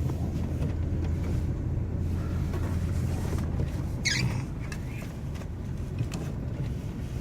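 Steady low road and engine rumble heard from inside a car's cabin as it drives on an icy highway, with one brief high-pitched squeak about four seconds in.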